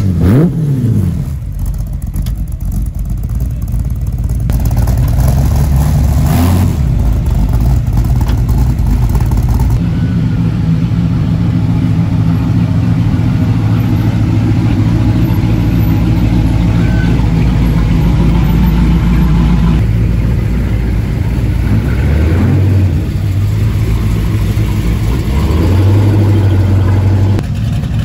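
Big car engines running at low speed. A sharp rev right at the start, then the steady, deep note of cars rolling slowly past: a lowered Chevy C10 pickup and, near the end, a C3 Corvette's V8.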